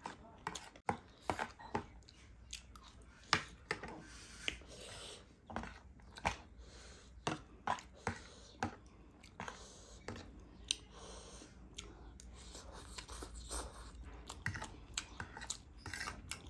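Close-miked mouth sounds of chewing spicy instant noodles and chatpate. Sharp, irregular clicks come from a fork and spoon scraping and tapping the plate as the noodles are mixed and lifted.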